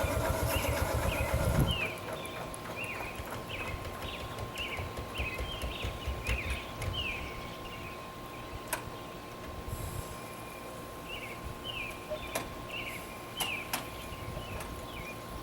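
Low running rumble of a scale steam traction engine that stops about two seconds in. After it, outdoor background with a small bird chirping over and over, a steady hum and a few sharp clicks.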